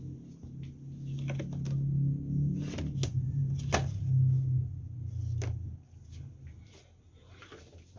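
Scattered light clicks and taps over a low steady hum that stops about six seconds in.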